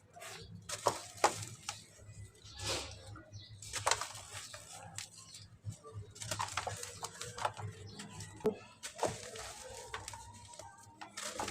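Soft cement with white grains crumbling in water, heard as irregular crunches and cracks, some much sharper than others.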